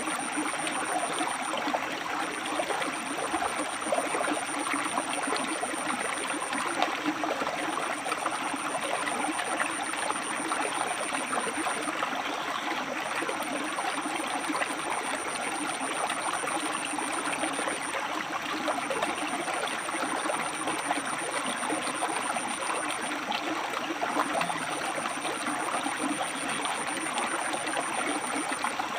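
A river running over and between rocks: a steady rush and burble of water. A thin high whine sounds alongside it in stretches of about five seconds with short breaks.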